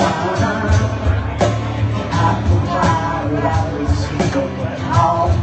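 Live rock band playing a song: drums keeping a steady beat under bass and a singing voice.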